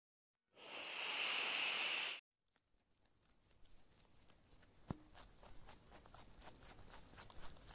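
A grass snake hissing for about a second and a half. After a short pause, a grey squirrel nibbles a nut, making faint rapid clicks and crunches of chewing with one sharper click.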